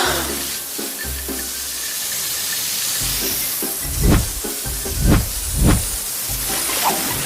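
Garden hose spraying water with a steady loud hiss, swelling briefly three times about four, five and five and a half seconds in.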